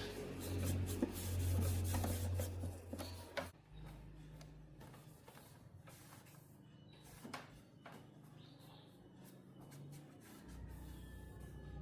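Rubbing and scattered light clicks of hands handling parts, over a steady low hum that fades out about three and a half seconds in and returns near the end.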